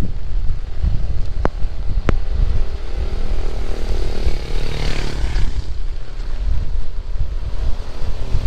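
Heavy rain with strong wind buffeting the microphone in a low rumble. Around the middle a motor vehicle passes, its engine hum and the hiss of its tyres on the wet road swelling and fading. Two sharp ticks come in the first two seconds.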